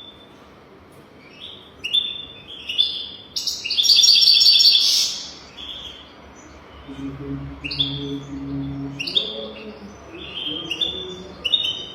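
European goldfinch singing: quick twittering chirps, with a loud, buzzy rapid trill about three and a half seconds in. A faint low hum comes in for a couple of seconds past the middle.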